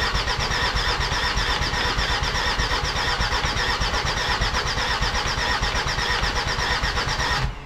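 Starter motor cranking the rebuilt Mercedes OM612 2.7 CRD five-cylinder diesel in a rapid, even pulsing without it firing: the engine is not getting fuel through to the filter. It cuts off abruptly near the end.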